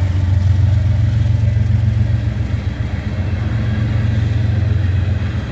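Diesel freight locomotives at the head of a CSX coal train passing close by, a loud steady low drone.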